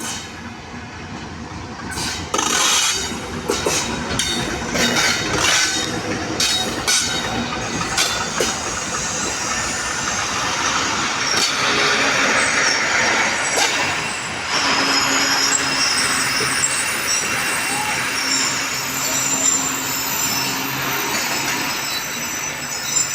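Passenger train arriving, its coaches rolling past. The wheels clack over rail joints in quick runs early on, then a thin high-pitched squeal of wheels and brakes sets in from about midway as the train slows.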